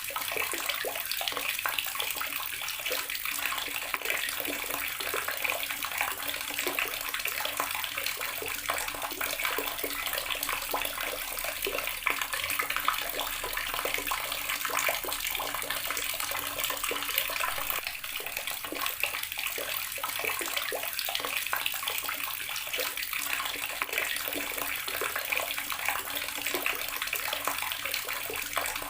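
Water running steadily from an outdoor tap, splashing continuously below.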